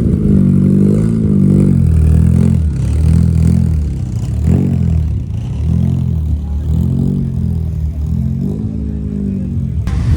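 Opel Corsa B car engine being revved in repeated blips, its pitch rising and falling about once a second, seven or so times.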